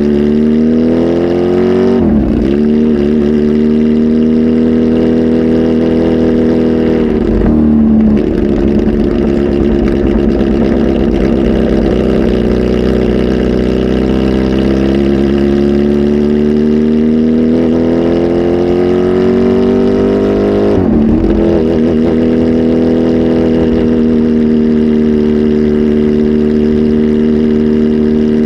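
Kawasaki Z H2 SE's supercharged inline-four, flash-tuned and on a full exhaust system, pulling through the gears. The engine note climbs slowly and drops sharply three times at the gear changes.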